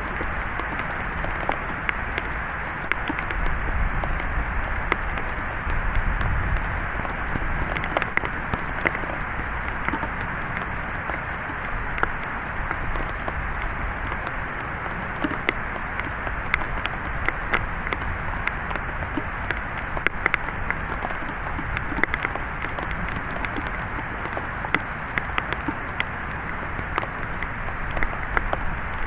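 Steady heavy rain in a thunderstorm, with many sharp drop impacts pattering on a nearby surface. A low rumble swells and eases a few seconds in.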